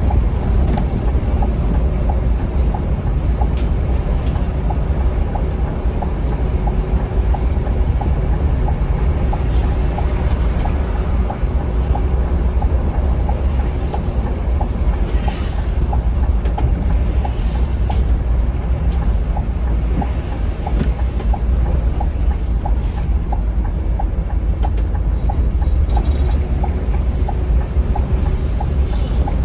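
Scania K360iB coach running along the road: a steady low rumble of engine and tyres, with a faint regular ticking over it.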